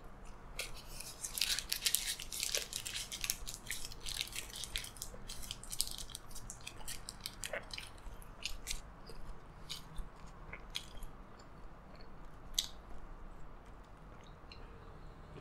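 Close-up chewing of a double cheeseburger: wet mouth clicks and smacks, thickest in the first few seconds, then thinning out to scattered clicks.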